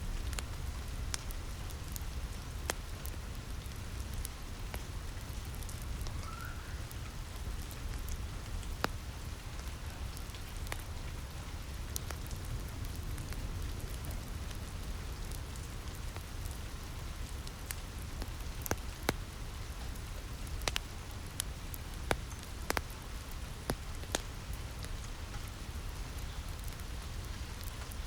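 Steady rain on a roof with a deep low rumble underneath, and the scattered sharp pops and crackles of a wood fire, more frequent in the second half.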